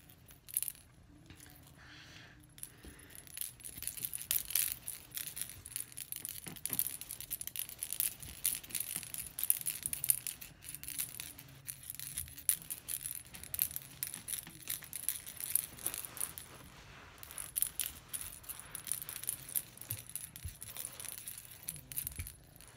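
A small toy rattling and jingling in quick, irregular shakes, starting a few seconds in and going on with a short lull.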